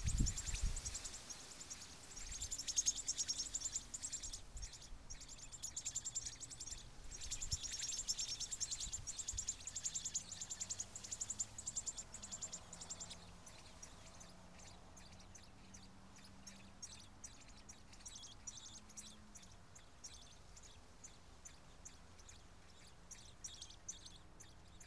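Faint outdoor ambience: a high, rapidly pulsing chirping for the first half or so, which then fades out, leaving scattered faint ticks. A faint low drone comes in around the middle.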